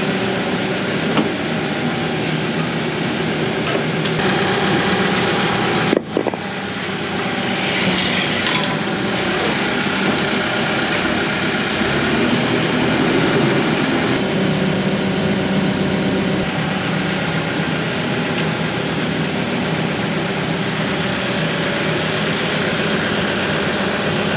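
A loader's engine running steadily, with one brief sharp knock about six seconds in.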